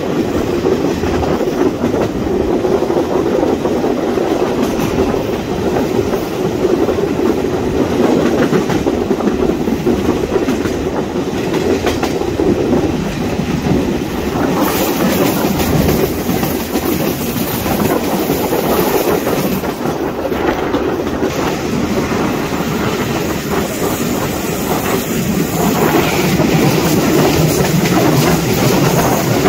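Electric commuter train running on the rails, heard through an open side window from aboard: a steady rumble with the clickety-clack of the wheels over the track. Over the last few seconds it grows louder as a CPTM Série 2070 electric train passes close alongside on the next track.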